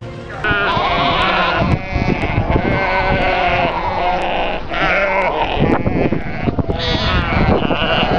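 A flock bleating: many overlapping, wavering calls that start suddenly about half a second in and go on throughout.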